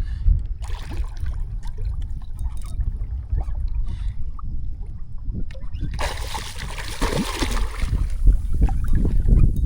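Wind buffeting the microphone with a heavy low rumble while water splashes and trickles against a kayak hull; about six seconds in, a louder hissing wash of water joins.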